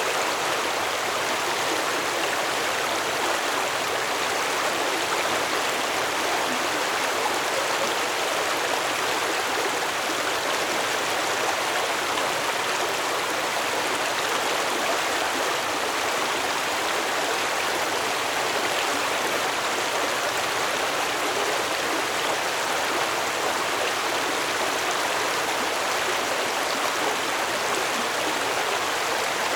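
Stream water flowing steadily over rocks, an even rushing and gurgling with no breaks.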